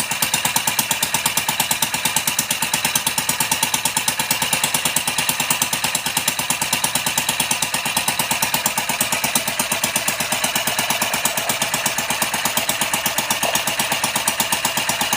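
Homemade beer can engine running steadily, with a rapid, even beat that holds constant throughout.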